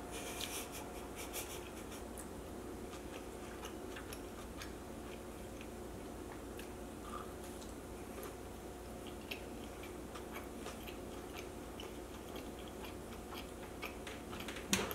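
Close-miked mouth sounds of a person eating a bite of sambusa pastry: a short crisp crackle in the first second or so, then soft, scattered chewing clicks, with a sharper click near the end.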